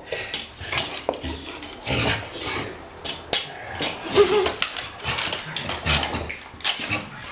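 A pet scuffling in a play fight: many sharp clicks and light knocks with some low thumps, and a brief voice-like sound about four seconds in.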